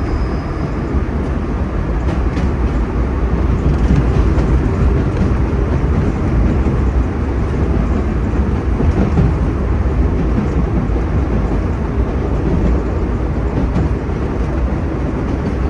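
Vintage New York City subway nostalgia train running along the track, heard from inside the rear cab: a loud, steady rumble of wheels on rail with a few faint clicks.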